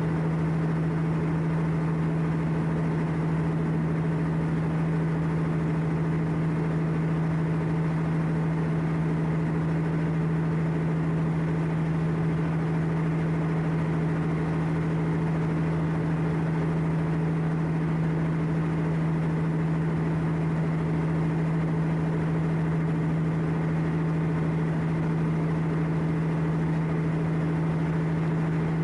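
A ship's diesel engine running at steady speed, a constant low hum with a strong steady tone and no change in pitch or level.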